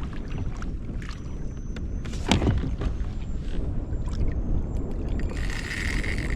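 Wind and water noise on a fishing kayak, with a steady low rumble and a single sharp knock about two seconds in. A brief hiss near the end.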